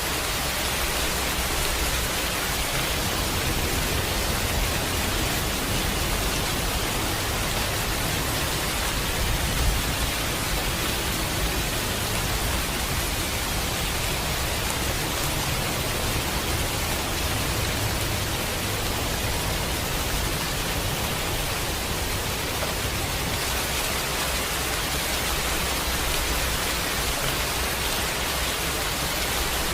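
Steady, even rain hiss, with a low rumble swelling and fading through the middle stretch.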